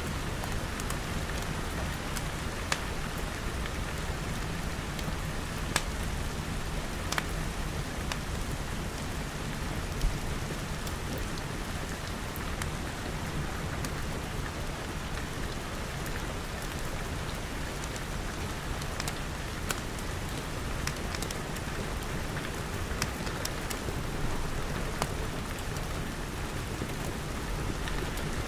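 Steady rain pattering on glass walls and roof, with a few scattered sharp pops through it.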